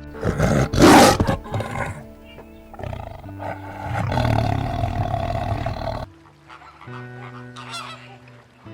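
Loud, rough animal calls over background music: a harsh call about a second in and a longer drawn-out one between about four and six seconds.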